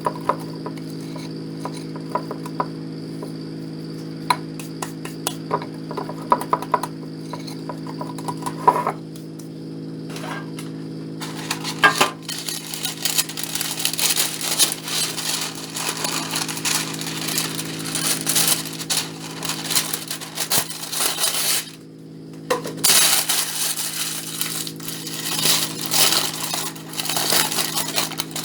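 Kitchen work: scattered light clinks and taps of utensils and dishes, then from about halfway a dense, crackling clatter, over a steady low hum.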